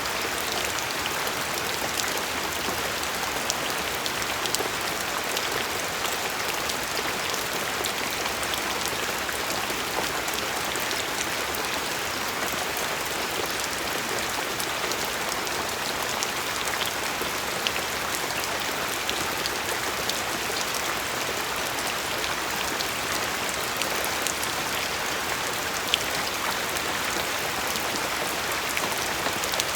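Steady rain falling, a continuous patter with many individual drops ticking on a surface.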